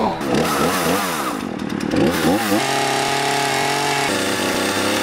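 Chainsaw revving up and down several times, then running steadily at high speed, as when cutting down a Christmas tree.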